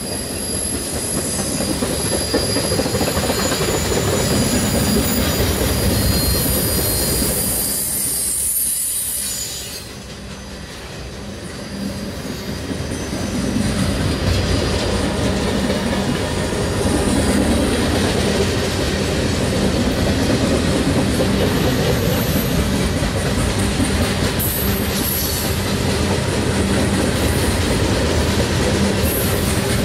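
Train cars rolling past close by, with a high-pitched wheel squeal during the first third and rail clatter throughout. The sound dips briefly about nine seconds in, then carries on at full level.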